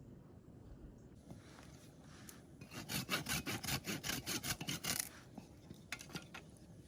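Hand saw cutting through a piece of firewood in quick back-and-forth rasping strokes for about two seconds, followed by a few light knocks of wood.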